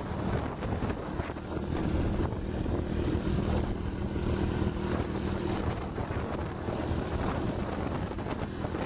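Wind buffeting the microphone of a moving small motorcycle, over the steady running of its 110cc engine.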